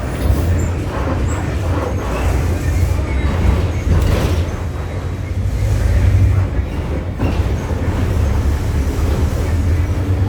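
Engine of a VW 17-230 OD bus chassis running under a Marcopolo Torino body as the bus drives, heard from inside the cabin: a steady low drone with the body and fittings rattling, and a couple of sharp knocks from the bodywork.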